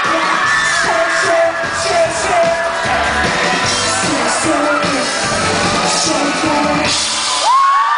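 Live pop-rock band playing at full volume, with singing and a crowd yelling along. Near the end the band stops and the crowd screams and cheers.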